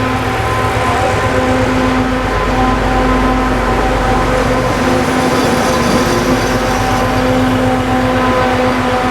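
Diesel locomotive running, its engine giving a rapid low pulsing under a steady whine of several stacked tones that breaks off briefly now and then.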